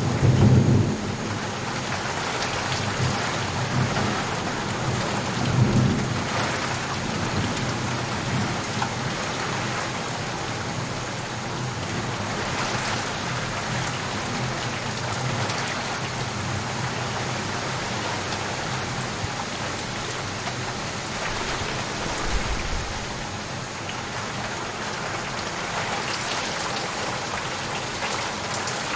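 Steady, even rain with low rumbles of thunder, the strongest in the first second, another around six seconds in and a faint one near twenty-two seconds.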